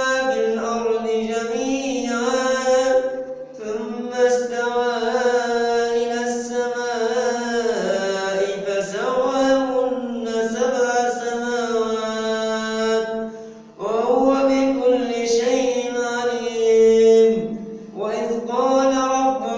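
A male reciter chanting the Quran in a melodic tajweed style, with long held notes that slide slowly up and down in pitch. He breaks briefly for breath three times: a few seconds in, about two-thirds of the way through, and near the end.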